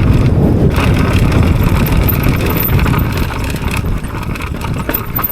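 Mountain bike riding fast down a dirt trail: wind buffeting the microphone over the rumble of the tyres and the rattle of the bike. It eases off near the end as the bike slows.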